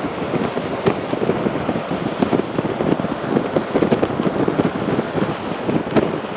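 Steady rain falling, a dense hiss broken by many irregular drips and splashes.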